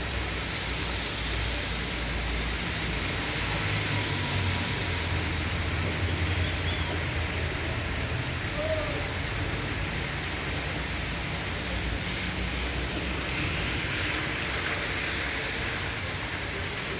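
Heavy tropical downpour: a steady rush of rain, with a low rumble underneath in the first several seconds.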